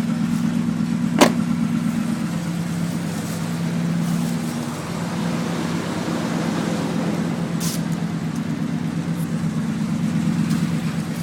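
Truck engine running steadily, a low even drone with a fine regular pulse, with one sharp click about a second in.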